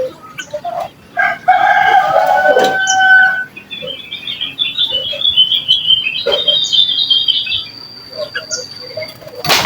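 A rooster crows once, about 1.5 s in, a call of about two seconds. Small birds then chirp rapidly in quick high notes for several seconds, and a sharp click sounds near the end.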